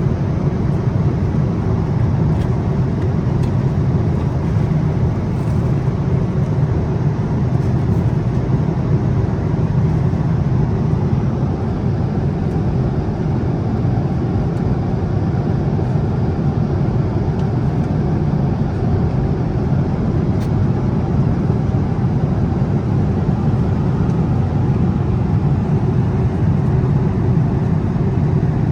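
Steady cabin noise inside a Boeing 787-8 airliner in flight: an even, low rumble of engines and airflow that holds constant throughout.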